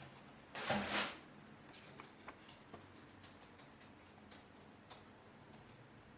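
Unboxing handling noises: a brief loud rustle or scrape about a second in, then scattered light clicks and taps as the keyboard and its packaging are handled.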